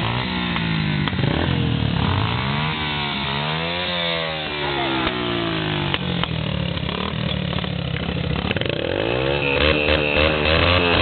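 Small four-stroke dirt bike engines of a Yamaha TT-R125 and TT-R90 revving, their pitch rising and falling again and again as the bikes ride about, the two engine notes overlapping.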